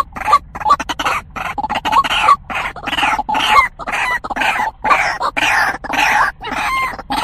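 White-breasted waterhen (truwok) calling in a loud, rapid run of short repeated notes. The call is meant to draw in a male.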